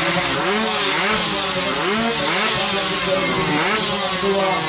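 Tuned Kawasaki Ninja two-stroke drag bike engines being revved hard, the throttle blipped again and again so the pitch jumps up and falls back in quick repeated sweeps.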